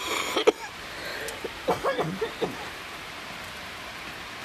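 Steady hiss of falling rain. In the first half there are a few short, pitched, voice-like sounds.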